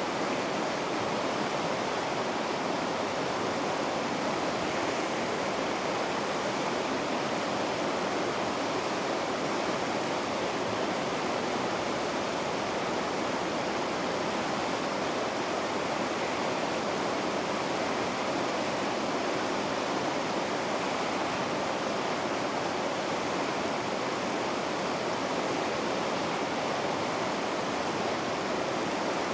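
Steady rushing of white water in river rapids, an even, unchanging sound with no separate splashes.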